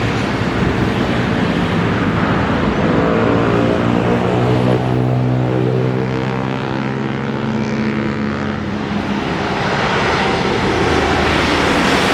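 Airliner passing low overhead on final approach, just before touchdown. Its loud engine noise drops in pitch partway through as it goes by.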